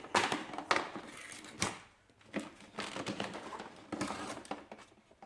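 Irregular clicks, knocks and rustling of battery cables and clamps being handled and hooked up.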